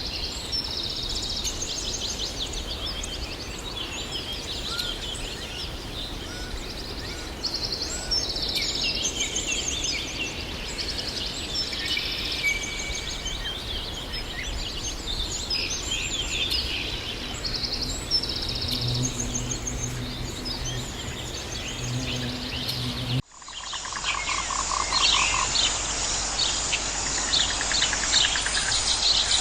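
A dense chorus of birds chirping and trilling, joined near the end of the first part by two long, low calls. About three-quarters of the way in it cuts abruptly to a different recording: a steady high-pitched insect drone under more bird chirps.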